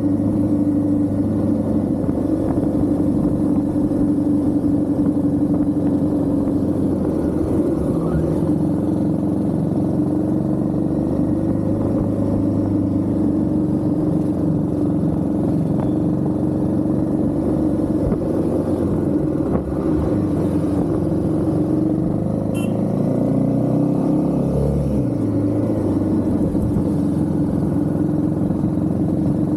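Royal Enfield Himalayan 450's single-cylinder engine running steadily under way, its note dipping and then rising again about three quarters of the way through as the speed changes.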